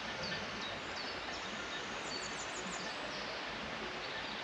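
Small birds chirping in short high calls over a steady outdoor hiss, with a quick run of four or five notes about two seconds in.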